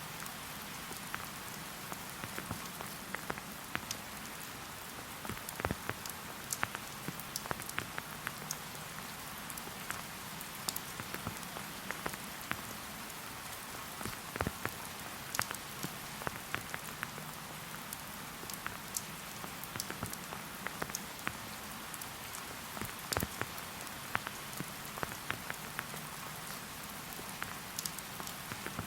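Steady light rain falling in a forest, a soft even hiss with many separate drops ticking irregularly on nearby surfaces.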